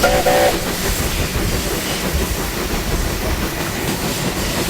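Narrow-gauge steam locomotives, Kalahari and an NGG 13 Garratt, working together as a doubleheader: a steady hiss of steam over a low rumble. At the very start come two quick short whistle toots.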